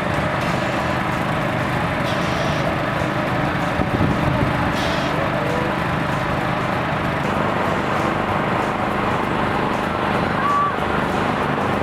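A large engine running steadily, with faint voices in the background.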